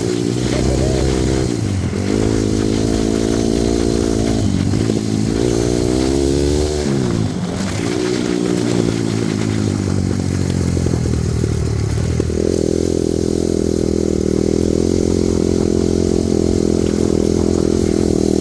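Honda CRF250R dirt bike's single-cylinder four-stroke engine being ridden hard, revving up and falling off several times as the throttle is opened and closed, then holding a steady high pitch for the last third.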